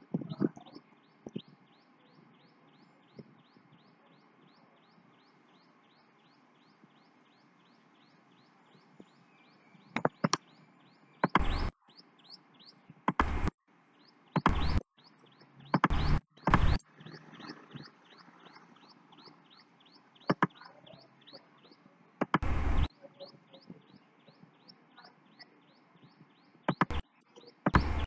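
A bird chirping over and over, a short high chirp about three times a second, steady throughout. Several loud knocks break in from about ten seconds in and once more near the end, louder than the chirping.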